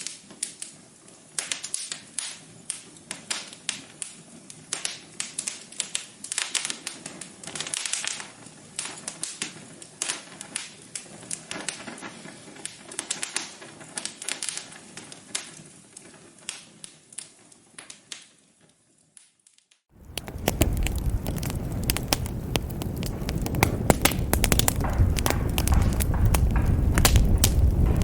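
Wood fire in a fireplace crackling, with irregular sharp pops and snaps. It fades away shortly before 20 seconds in, and then a louder fire sound begins, with a low rumble under denser crackling.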